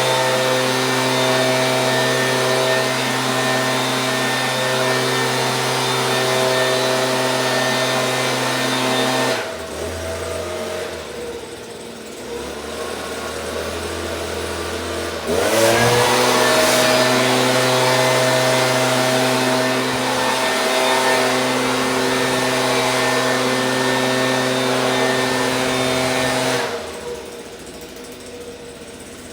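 Stihl BG 86 handheld leaf blower's two-stroke engine running at high throttle, dropping to idle about nine seconds in, revving sharply back up to full speed about six seconds later, then falling back to idle near the end.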